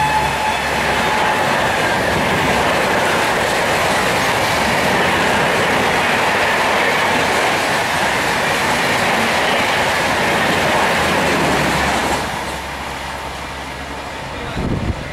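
A passenger train rushing past at speed, its wheels clattering over the rail joints. The tail of its horn, sliding down in pitch, fades out in the first second or so, and the rush eases off about twelve seconds in as the train clears.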